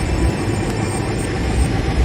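Airliner engines running at high power, heard as a steady, loud noise with a heavy low rumble.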